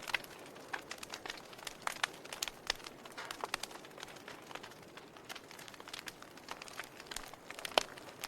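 Burning firewood crackling: irregular sharp pops and snaps over a soft steady hiss, with a few louder pops standing out, the loudest near the end.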